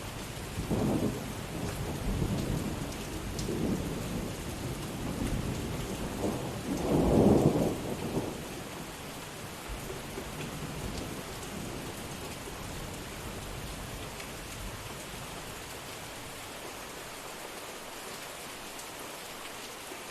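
Steady heavy rain with rolling thunder rumbling through the first several seconds, peaking loudest about seven seconds in, then fading to the rain alone.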